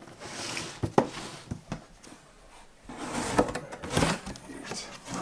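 A cardboard box being opened and its contents handled. There are a few sharp clicks and knocks in the first two seconds, then rustling and knocking from about three seconds in.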